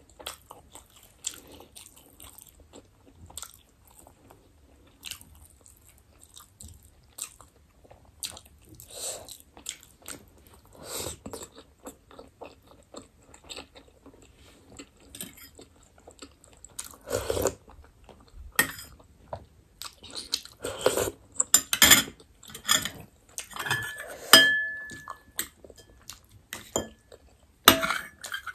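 Close-miked eating sounds of chicken momo dumplings: irregular wet chewing, smacking and biting clicks. They are sparse at first and grow louder and more frequent in the second half.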